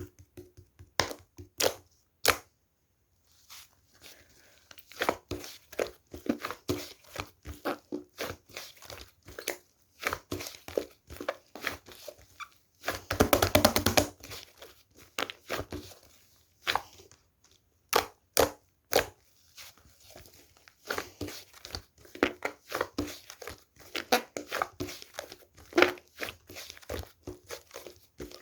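Cloud slime being squeezed, poked and stretched by hand: a run of irregular crackling pops and tearing sounds, with a dense stretch of crackling about thirteen seconds in.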